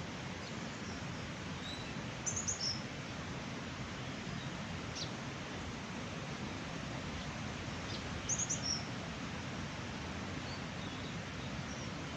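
A small bird chirping in two quick bursts of high calls, about two seconds in and again about eight seconds in, with a few fainter chirps between, over a steady rushing background noise.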